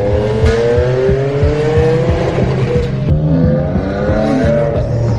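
Tuned car engine revving, its pitch climbing for nearly three seconds, dropping back about three seconds in, then climbing again before levelling off.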